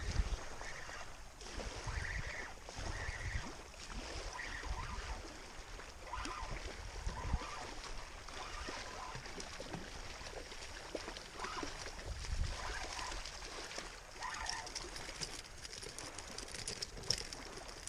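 Water trickling and gurgling, with wind gusting on the microphone in irregular low rumbles and a few faint short sounds scattered through.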